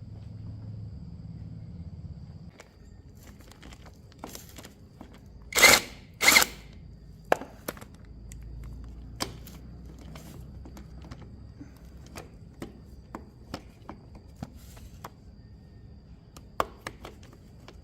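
Scattered clicks and knocks of tools and metal motorbike parts being handled. About six seconds in there are two louder, longer bursts of noise, and a low hum runs under the first couple of seconds.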